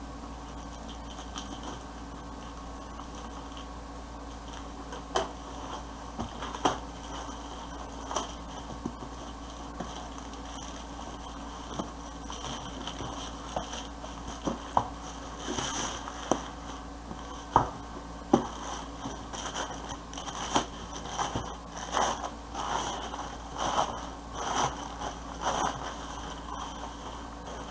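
Packaging being handled and opened: scattered clicks and knocks with scraping and rustling, sparse at first and busier in the second half, over a steady low hum.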